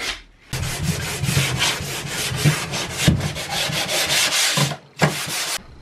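Sandpaper rubbing over wooden cabinets in quick repeated strokes, breaking off briefly near the end, starting again, and then stopping.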